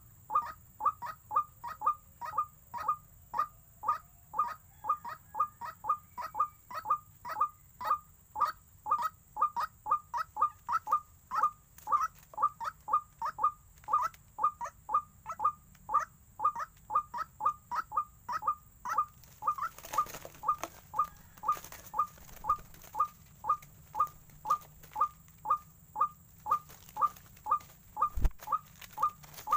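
White-breasted waterhen (ruak-ruak) call, one short note repeated very evenly about twice a second without a break, the kind of call used to lure the birds to the snares. A single low thump sounds near the end.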